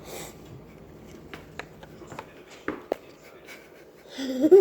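A few faint clicks and taps of plastic magnetic shapes on a fridge door, then near the end a toddler's loud short vocal sound that bends up in pitch.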